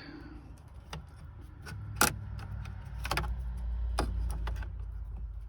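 Scattered sharp clicks and small rattles of plastic and metal as the passenger-side airbag connector behind the dash is worked loose by hand, the loudest click about two seconds in, over a steady low hum.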